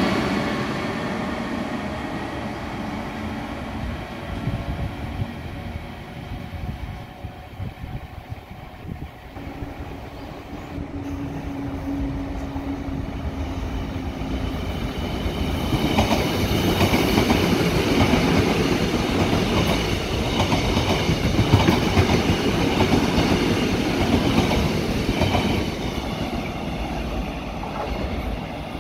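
A KTX-Sancheon high-speed train passing, its noise fading over the first few seconds. Then an electric commuter train runs in alongside the platform: a hum, then the rumble and clatter of its wheels over the rail joints, loudest in the latter half before easing near the end.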